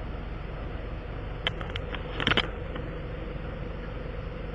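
Steady low hum of a running vehicle, with a few sharp clicks about a second and a half in and a short metallic clatter just after two seconds.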